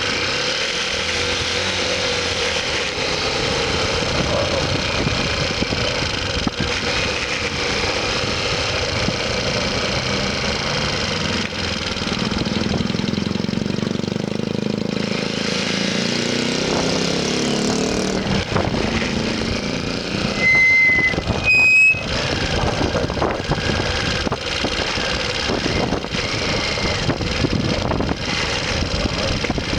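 Motorcycle engine running on the road, with its pitch rising as it speeds up about halfway through. A vehicle horn beeps twice, briefly and loudly, about two-thirds of the way in.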